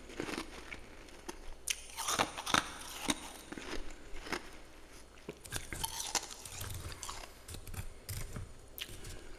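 Freezer frost being chewed close to the mouth: irregular, crackly crunches, several a second in spurts.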